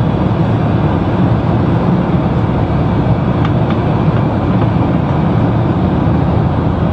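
Steady, loud cabin noise of a jet airliner, an even low rush with no rise or fall, with a few faint ticks about three and a half seconds in.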